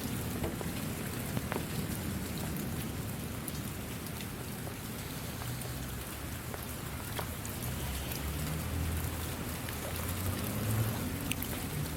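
Steady rain falling, with scattered individual drops ticking over the hiss and a low rumble underneath that swells a little in the second half.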